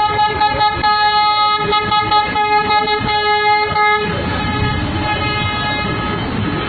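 Bus air horns sounding one long steady blast, strongest for the first four seconds and then weaker over a low vehicle rumble.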